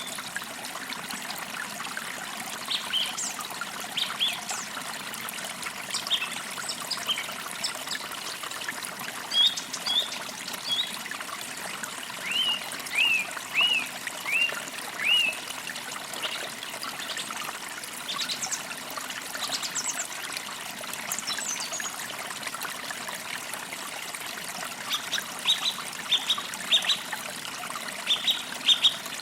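Small creek trickling steadily over stones, with birds chirping above it: a run of about five short, downward-sweeping notes midway and a quick series of chirps near the end.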